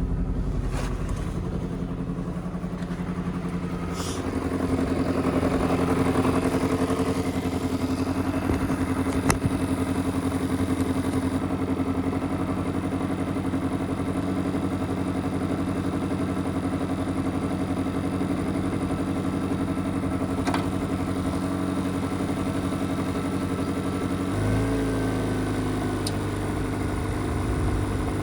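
The 1970 Mitsubishi Minica 360 GSS's 360 cc twin-carburettor engine running steadily, picking up a little about four seconds in and changing to a different, lower-based note near the end, with a brief sharp click about nine seconds in.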